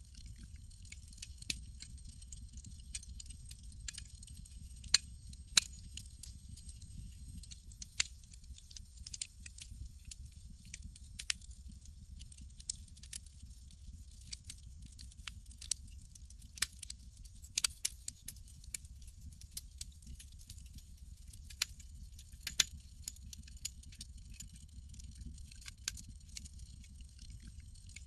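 Wood campfire crackling: irregular sharp pops and snaps, a few much louder than the rest, over a steady low rumble and a faint high hiss.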